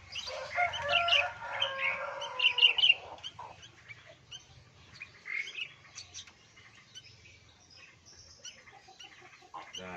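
Sooty-headed bulbuls chirping: a loud, busy run of chirps over the first three seconds, then scattered single chirps.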